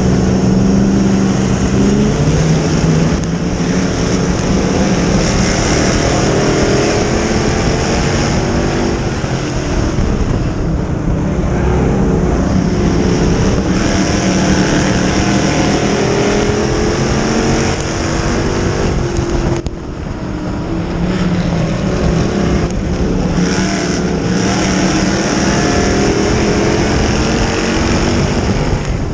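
Dirt-track modified race car engine running hard, its pitch rising and falling every few seconds as it accelerates and lifts through the turns.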